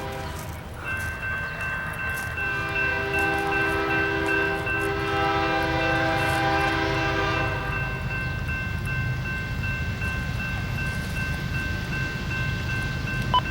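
Freight locomotive horn blowing one chord for about five seconds over the low rumble of an approaching train. A thin, steady, high-pitched ringing tone runs underneath.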